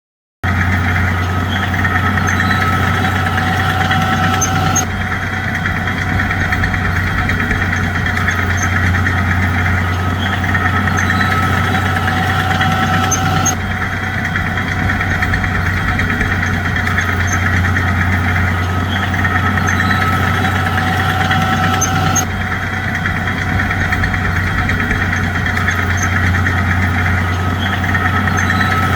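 Bulldozer's diesel engine running steadily with a deep hum and a thin high whine, the higher sound shifting abruptly a few times.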